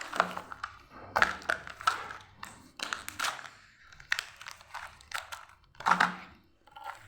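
Close-miked eating noises: crunchy bites and crinkling, in short bursts about a second apart.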